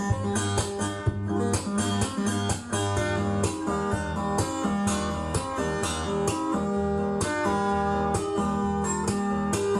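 Guitar music, plucked and strummed notes, played back from a vinyl record on a Lenco L30 belt-drive turntable.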